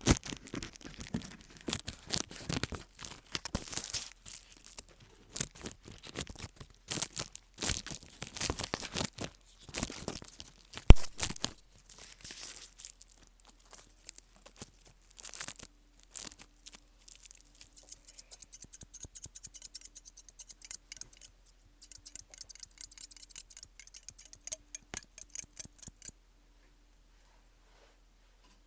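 Close-miked ASMR trigger sounds: dense crackling and crinkling clicks, turning into quicker, lighter rapid crackles partway through, then cutting off suddenly near the end.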